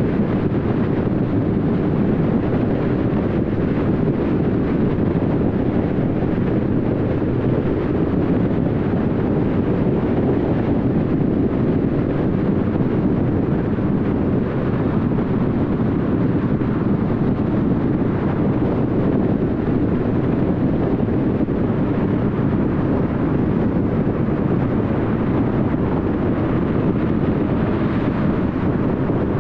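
Car driving at highway speed: steady tyre and wind noise, with a slight swell near the end.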